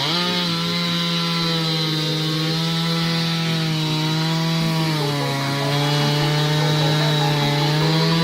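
Two-stroke chainsaw running at high speed as it cuts wood, with a steady engine note that dips briefly in pitch about five seconds in.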